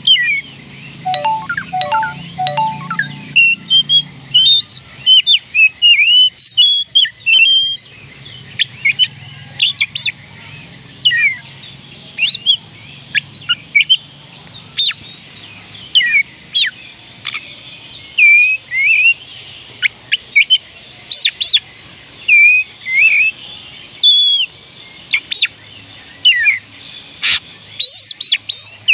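Oriental magpie robin singing: a long, varied run of short whistled notes with quick rising and falling glides, one phrase after another with short gaps.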